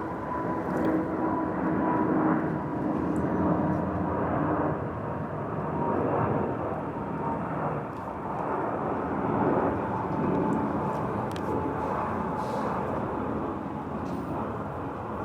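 Airliner engines on a landing approach: a steady rumbling roar of jet noise with a faint whine that drifts slightly lower in pitch.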